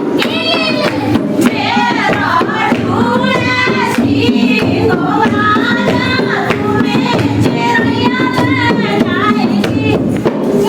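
Singing of a dehati (rural Hindi) folk song, with a regular beat of claps or hand percussion keeping time.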